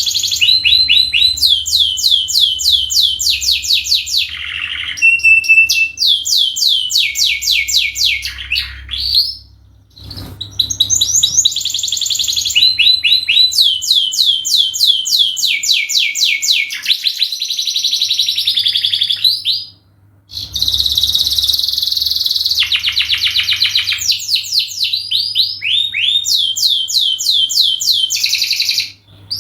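Domestic canary singing a long, high-pitched song of fast trills and rolled phrases, broken by short pauses about ten and twenty seconds in and again near the end. A faint steady low hum runs underneath.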